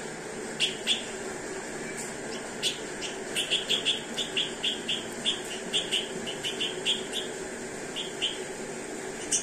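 Bird chirping in short, sharp notes, a couple at first and then quick runs of several a second, while a bird pecks at a stack of rotis. A steady low hum runs underneath.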